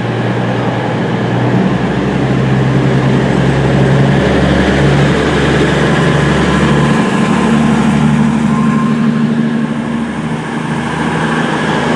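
Class 220 Voyager diesel multiple unit pulling away, its underfloor diesel engines running under power with a steady drone. The engine note shifts higher about seven seconds in.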